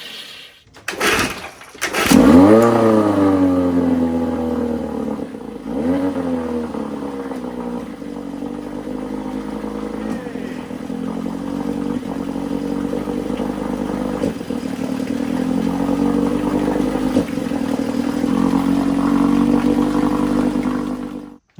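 Old 9.5 hp OMC two-stroke outboard motor started in a water test drum to check the newly rebuilt water pump. It catches about two seconds in, revs up and falls back, revs briefly again, then runs steadily, and cuts off suddenly near the end.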